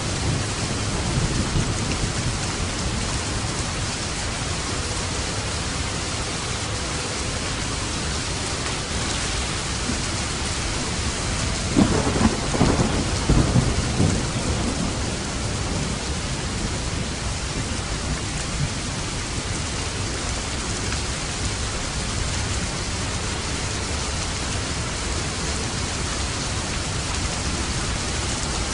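Steady heavy rain falling, with a rumble of thunder building and rolling about twelve to fourteen seconds in.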